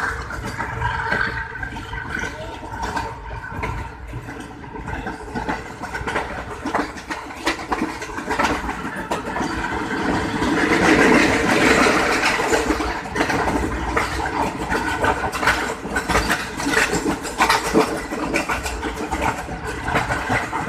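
Passenger train coach running on the rails, heard through an open window: a steady rushing rumble with the wheels clicking over rail joints. It grows louder for a few seconds about halfway through.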